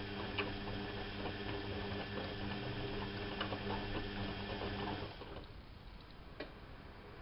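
Bauknecht WAP 6460 washing machine running: a steady motor hum with water sloshing and small clicks, which stops about five seconds in, leaving a faint hiss and a single click.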